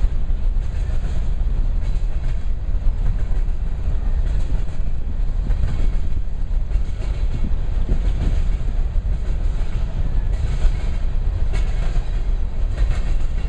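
Freight train rolling past, a steady low rumble of wheels on rail, with a few faint clicks toward the end.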